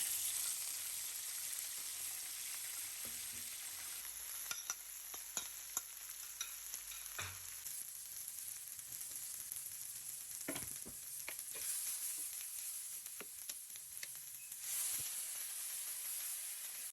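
Food sizzling in oil in a frying pan, a steady hiss with scattered sharp clicks and taps of a utensil against the pan.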